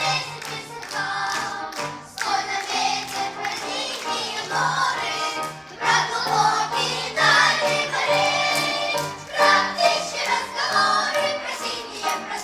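Children's choir singing a song in unison over an instrumental accompaniment with a steady, rhythmic bass line.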